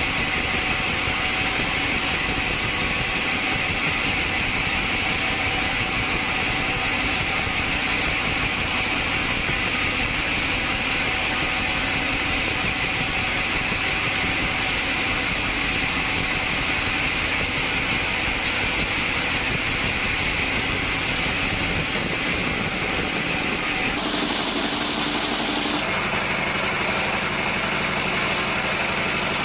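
Sawmill machinery running steadily, a constant mechanical hum with a high hiss; its sound changes abruptly twice near the end.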